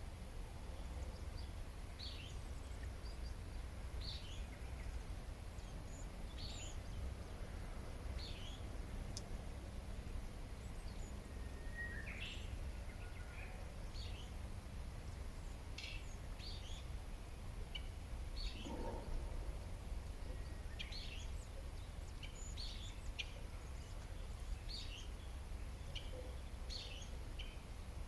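Wild birds chirping: short, high calls repeating every second or so, with a lower call near the middle, over a steady low rumble.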